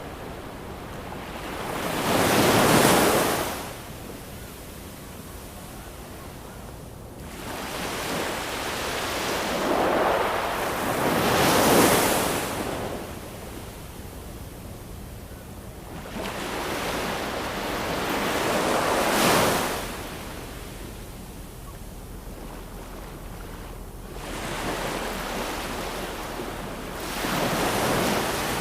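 Ocean waves breaking on a shore: four swells, one about every eight seconds, each building to a rush of surf and falling back to a low steady wash between them.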